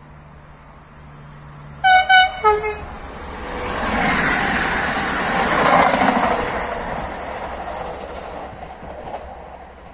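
Electric multiple unit sounding its two-tone warning horn about two seconds in: two short higher blasts, then a lower note. It then passes close by, its rush loudest around four to six seconds before fading away.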